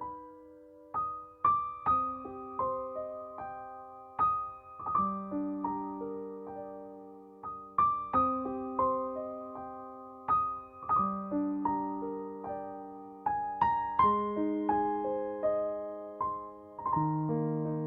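Gentle background piano music: a slow melody of single notes over sustained chords, each note struck and fading away.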